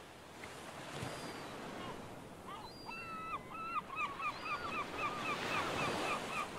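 A bird calling in a quick run of short, sharp notes, about three or four a second, starting a couple of seconds in, over a steady hiss of surf and wind on a beach.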